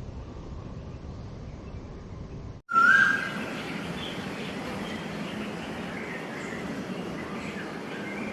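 A low steady rumble cuts off abruptly about two and a half seconds in. Birds then chirp and call over an even background hiss, starting with one loud short whistled note just after the cut.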